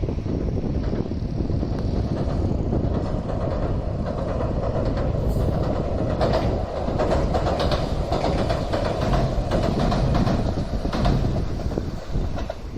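A train running past on the track, with a steady rumble and its wheels clicking over the rail joints, the clicks thickest in the middle and later seconds.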